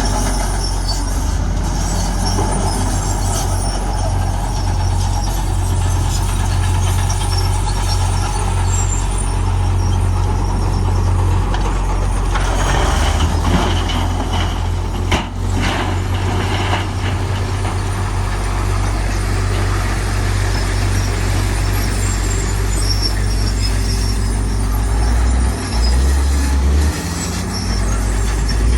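Heavy diesel construction machinery, dump truck and bulldozer engines, running steadily with a deep rumble. About halfway through comes a louder rush of noise with a sharp knock.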